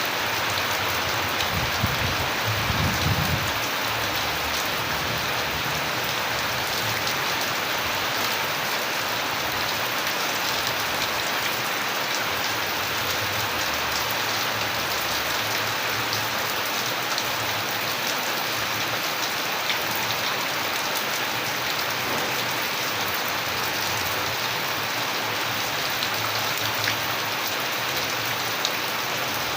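Steady rain falling, an even hiss with scattered sharper drop hits. A brief low rumble comes about two seconds in.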